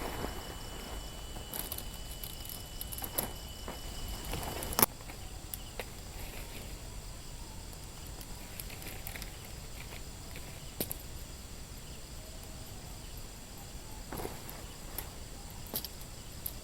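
Insects chirping steadily at a high pitch in the forest, with a thinner steady tone through the first few seconds. Scattered light clicks and rustles of handling run alongside, with a sharper click about five seconds in.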